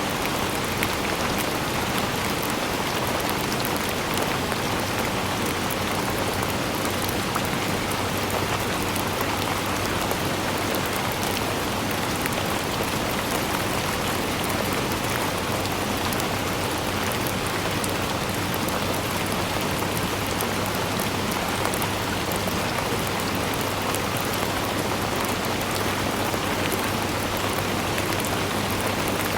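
Steady rain falling: an even hiss with many small drops ticking on surfaces.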